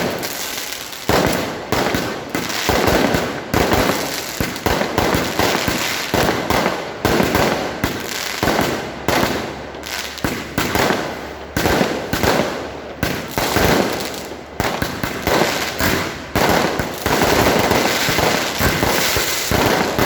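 Fireworks going off in a rapid, continuous barrage of sharp bangs and crackles, each bang trailing off in an echo. The bangs come thickest near the end.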